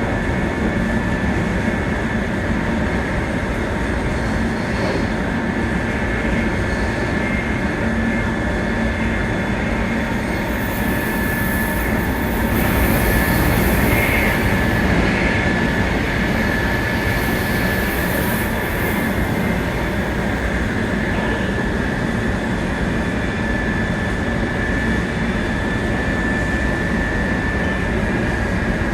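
Running noise of a 700 series Shinkansen heard from inside the car at speed: a steady rumble of wheels on rail with a constant high whine. The noise swells briefly with extra hiss around the middle.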